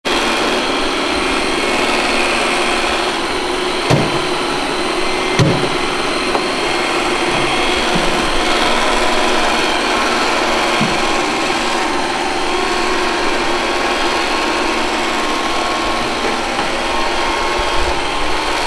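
Robot vacuum cleaner running, its motor and brushes giving a steady, even whirring hiss. There is a sharp knock about four seconds in and another about a second and a half later.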